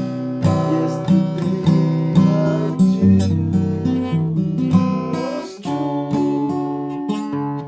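Acoustic guitar strummed, with chords struck about every half second to second and ringing on; the chord changes about five and a half seconds in.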